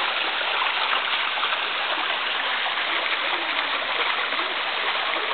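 Small mountain waterfall falling into its pool: a steady, even rush of water.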